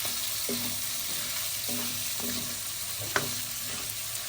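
Chicken in gravy sizzling in a karahi while a spoon stirs it, scraping the pan in short strokes roughly once a second, with a sharper clack a little past three seconds in.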